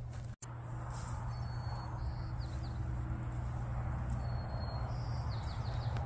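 A songbird singing two phrases about two and a half seconds apart, each a held high whistle followed by a quick run of falling notes, over a steady low rumble.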